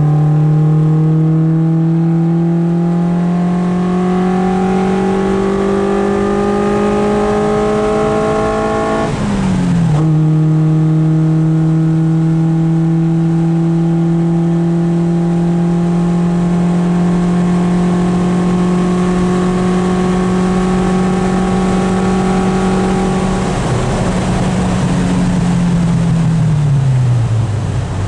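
Abarth-modified Fiat X1/9's four-cylinder engine heard from inside the cabin. The pitch rises steadily under acceleration, drops at an upshift about nine seconds in, and then holds a long steady cruising note. Near the end the pitch falls away as the car slows.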